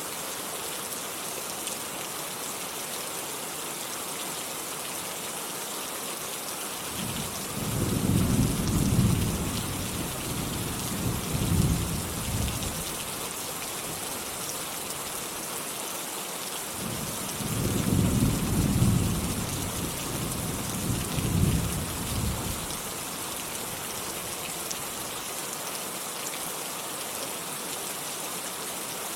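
Steady rain falling, with two rolls of thunder: a low rumble about a quarter of the way in and another just past the middle, each swelling twice over about five seconds before fading back into the rain.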